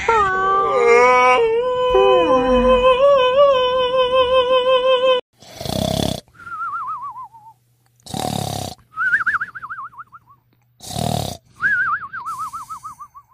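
A long, wavering, cat-like yowl lasting about five seconds, then the cartoon snoring sound effect three times: a rasping snore in, then a warbling whistle out that falls in pitch.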